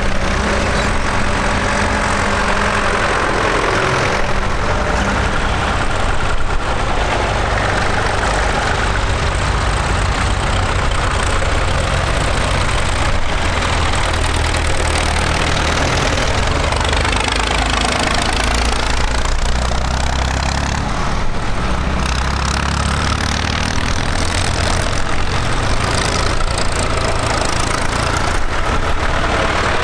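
Tractor engines running steadily, their pitch shifting up and down as they go, with a sweeping change in the note about halfway through.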